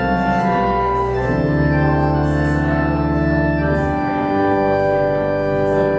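Church organ playing held chords over deep bass notes, the chord changing every second or two.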